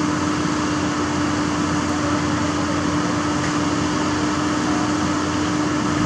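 Heavy diesel truck machinery running at a constant speed: a steady drone with an unwavering hum.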